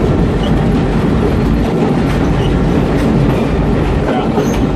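A train rolling steadily across a steel truss bridge: continuous rumble of the wheels on the rails, with faint irregular clicks, heard loud and close from the outside platform of the locomotive.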